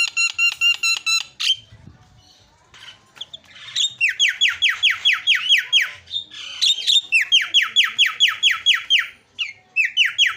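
Javan myna (jalak kebo) calling: bursts of fast, harsh, evenly repeated descending notes, about six a second, each burst lasting a second or two with short pauses between.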